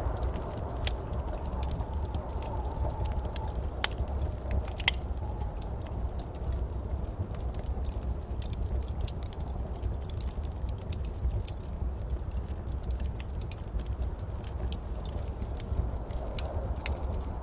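Wood fire burning in a fireplace, crackling and popping irregularly, with two louder pops about four and five seconds in, over a low steady rumble.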